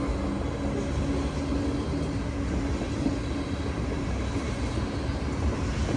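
Loaded coal train rolling past, its cars and wheels making a steady low rumble.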